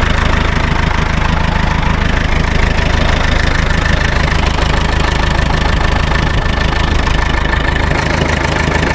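Engine idling steadily at a constant speed, with no change in revs.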